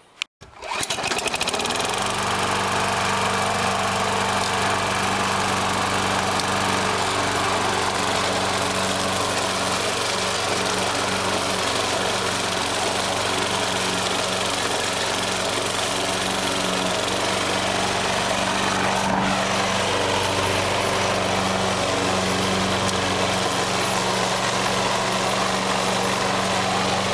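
Craftsman 5 hp four-stroke lawn mower engine running steadily at a constant speed, freshly tuned up. It builds up in the first second or two, then holds even.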